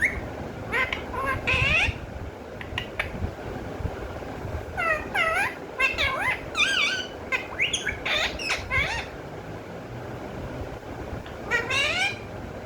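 Pet parrot calling and chattering in short bursts of squawky, warbling cries and mimicked sounds, with a busy run in the middle and another burst near the end.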